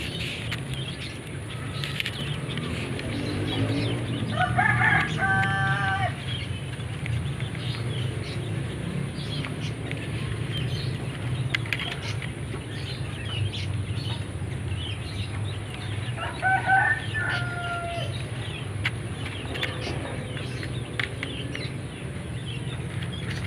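A rooster crowing twice, once about four seconds in and again about twelve seconds later, each crow lasting a second or so. Small birds chirp here and there over a steady low hum.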